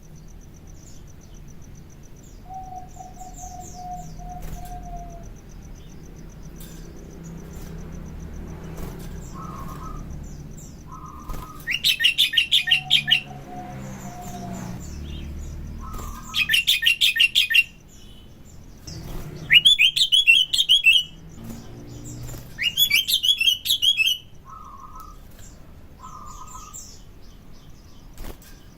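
Sooty-headed bulbul (kutilang) singing, with four loud bursts of rapid, chattering trilled notes in the second half, each lasting about a second, between quieter, shorter calls.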